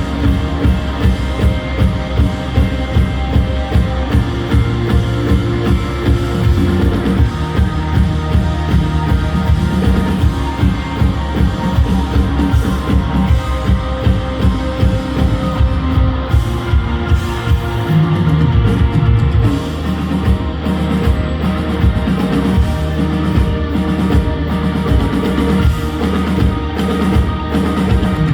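Live rock band playing: electric guitars over a drum kit with a steady beat of about two beats a second.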